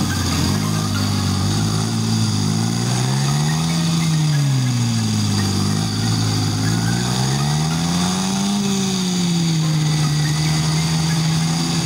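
Car engine heard onboard while lapping a track, its pitch falling away and climbing again several times as it slows for corners and accelerates out, peaking about two thirds of the way through, over a steady rush of wind and road noise.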